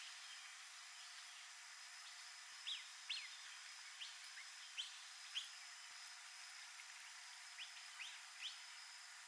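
A small bird giving short, falling chirps, about ten of them scattered over several seconds, over a faint steady hiss with a thin high tone.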